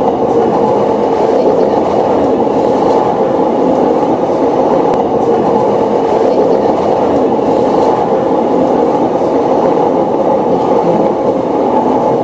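Steady rumble of trains running on rail, with a few faint clicks, as a JR E259 series Narita Express passes close alongside.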